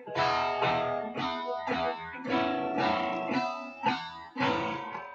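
Guitar in drop D tuning playing a single-note riff, picked notes stepping down and back up the neck, about one every half second.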